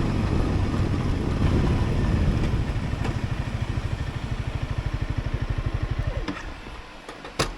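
Honda CRF300L Rally's single-cylinder engine running, then slowing to an idle with its separate firing beats audible. It stops about six seconds in, and a single sharp click follows near the end.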